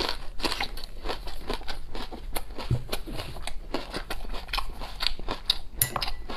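Crisp, crunchy chewing of a mouthful of raw Chinese green onion (scallion) stalk, many short crunches in quick succession, picked up close to the mouth.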